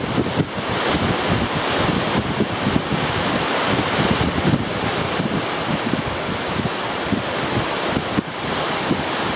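Strong gusty wind buffeting the microphone: a steady rushing noise with an uneven low rumble from the gusts.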